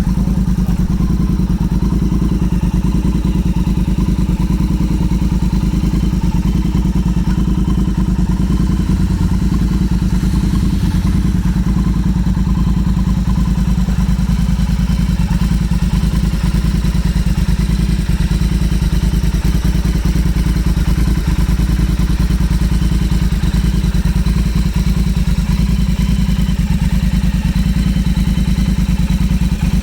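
Motorcycle engine idling steadily, with an even, unchanging beat.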